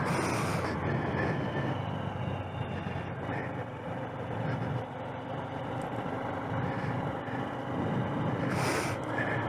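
Small motorcycle engine running steadily while riding, with road and wind noise on the microphone.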